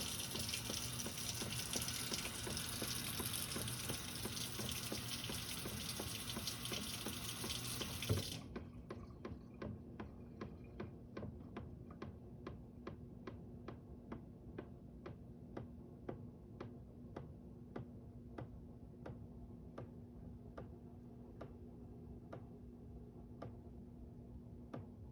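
Water rushing through the plumbing inside a wall, a steady hiss that cuts off abruptly with a knock about eight seconds in. After it, regular sharp ticks, about two a second at first and spacing out toward the end.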